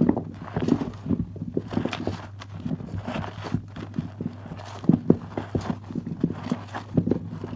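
Hands squeezing and working wet soap lather and foam, giving irregular squishing clicks a few times a second.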